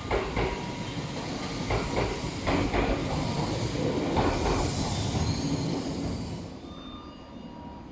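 Tobu train's wheels running over rail joints: a series of sharp clicks over loud running noise, which dies away about six and a half seconds in.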